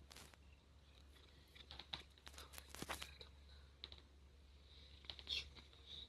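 Near silence, with faint scattered clicks and rustles over a low steady hum.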